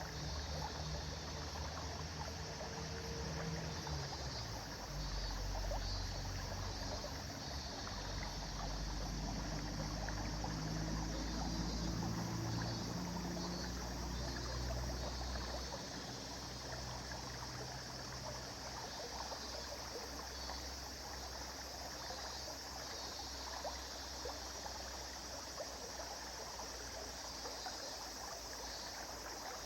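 River water flowing steadily. A low droning hum sits under it for the first half and fades out a little past halfway.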